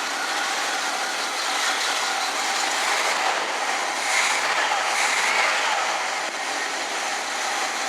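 1976 Pontiac Firebird Formula's carburetted V8 idling steadily while its idle speed is turned up a little: the idle was set a hair slow for a cold engine after ten years of sitting.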